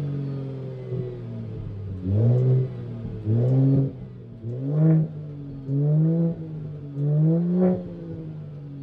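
Car engine settling to idle, then blipped five times in quick succession, each rev rising in pitch and falling straight back to idle. Sharp exhaust pops sound at the top of several blips.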